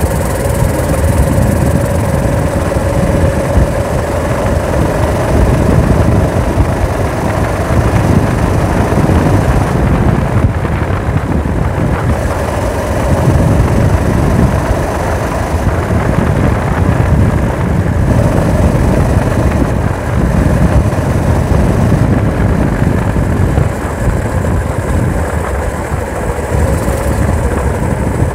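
Four-stroke engine of a motorized-bicycle chopper running under way through its fiber-packed muffler, its pitch rising and falling gently as the speed changes.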